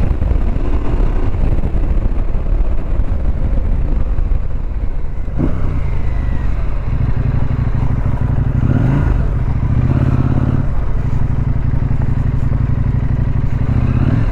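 Adventure motorcycle engine running steadily while riding, its pitch changing a few times as the speed changes.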